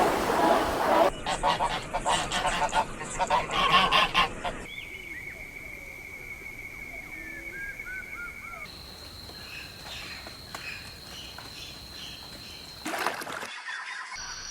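A flock of birds calling loudly and rapidly for a few seconds, then quieter scattered short calls over a steady high tone.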